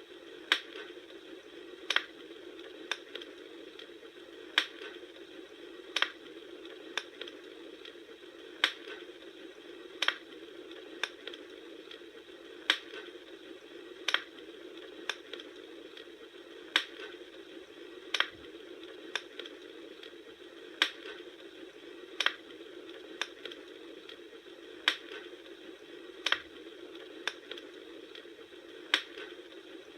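Campfire crackling: sharp pops and snaps every second or two over a steady low hiss.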